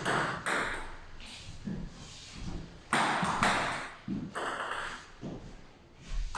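A table tennis rally: the celluloid-type plastic ball knocked back and forth by rubber-faced bats and bouncing on the table, a string of sharp, irregularly spaced pings that ring briefly.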